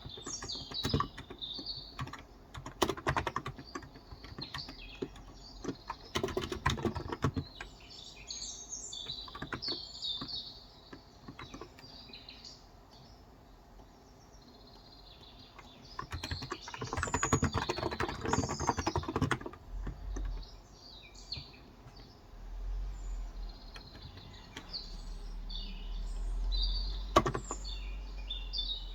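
Typing in short bursts on a Cox Endeavor electrostatic capacitive (35 g) tenkeyless keyboard, with a longer run of keystrokes past the middle. Birds chirp throughout, and a low hum comes in about two-thirds of the way through.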